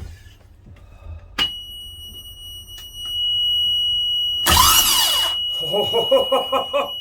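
Yanmar 3QM30H three-cylinder marine diesel's new starter motor cranking the engine over, a test to see whether it engages and turns the engine, not an attempt to start it. A click comes about a second and a half in, followed by a steady high-pitched warning buzzer. The starter engages with a loud whirring burst, then the engine turns over with a regular beat.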